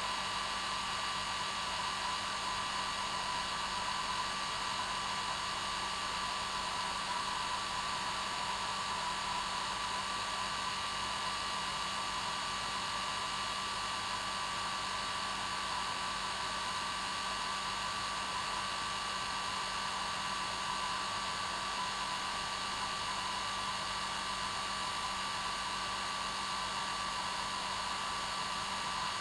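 Hair dryer running steadily: an even blowing rush with a steady whine and a low hum, unchanging throughout.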